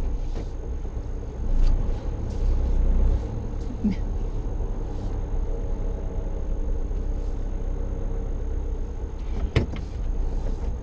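Engine and road noise of a vehicle being driven, heard from inside the cab as a steady low rumble, with one sharp click about nine and a half seconds in.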